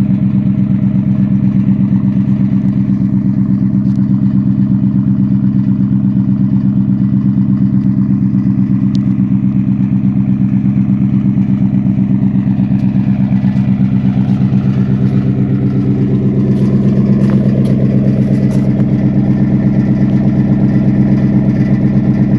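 2020 Ford F-150 idling steadily after a cold start, heard through an AWE cat-back exhaust with the resonator deleted: a deep, even, rapidly pulsing exhaust note.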